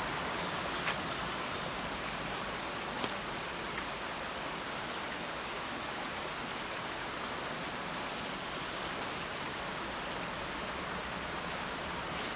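Stream water rushing steadily, an even hiss of flowing water, with two brief clicks about one and three seconds in.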